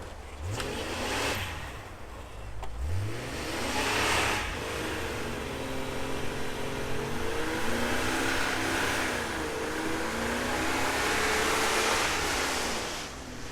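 Jeep engine revving under load as it climbs a snow-covered hill on tires aired down to 10 psi. The engine note rises sharply twice in the first few seconds, then climbs and falls back several times.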